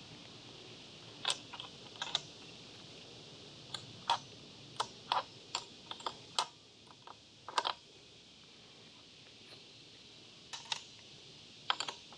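Scattered sharp clicks and light taps, about fifteen at irregular intervals, from hand tools and metal parts being handled.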